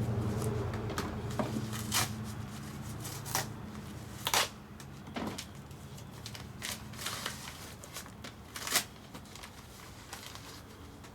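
Fire in a rocket stove's burner crackling, with sharp, irregular pops several seconds apart. A low rumble fades away over the first few seconds.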